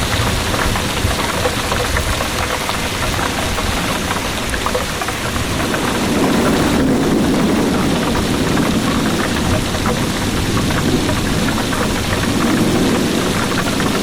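Heavy rain falling steadily, with low rumbles of distant thunder swelling about six seconds in and again near the end.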